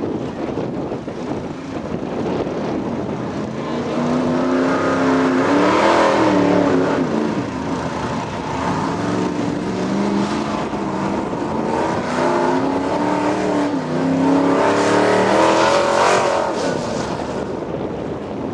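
Modified 4x4 pulling truck's engine revving hard, its pitch climbing and dropping several times, loudest about a third of the way in and again near the end.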